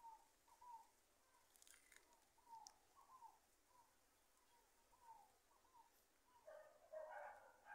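Faint short bird calls repeating about once every half second, with louder, fuller calls setting in near the end.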